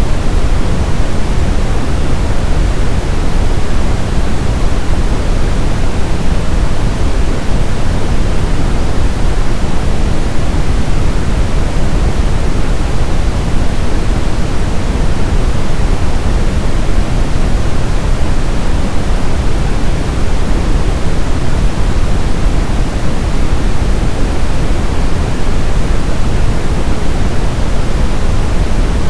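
Brown noise: a steady, even hiss weighted toward the low end, like a deep rumble.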